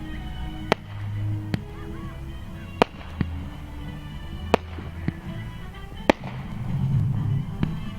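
Fireworks display going off, with sharp bangs of bursting shells about every second or so, roughly seven in all, over a continuous low rumble. Music plays underneath.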